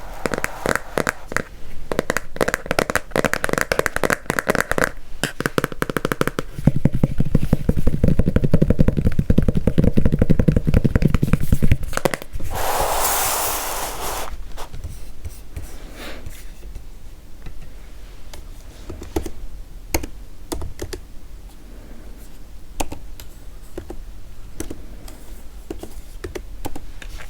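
Typing on a computer keyboard, close up: keys clicking in fast, dense runs for the first twelve seconds, then slower, scattered keystrokes. A short breathy hiss comes about halfway through.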